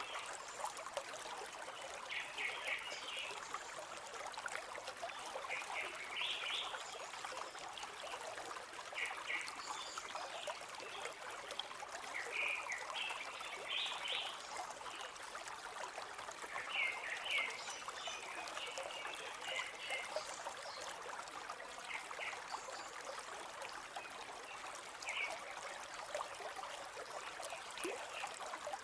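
River water flowing over rocks: a steady rush, with brighter trickling bursts every second or two.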